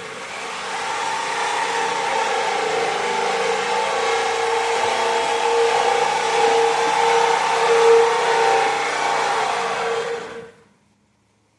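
A small motor running steadily with a constant high whine over a hiss, cutting off about ten and a half seconds in.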